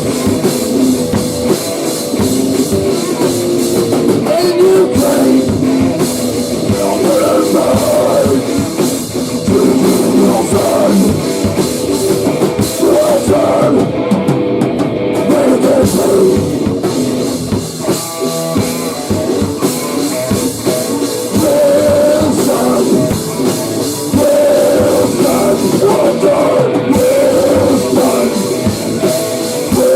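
Rock band playing loud, heavy grunge-hardcore music, with a drum kit pounding throughout.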